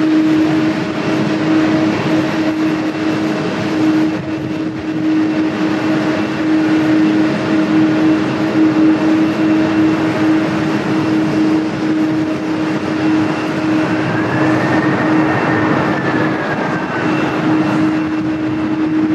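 Jet airliner engines running loud and steady with a constant droning tone under a rushing noise. Late on, a faint whistle rises and then falls away.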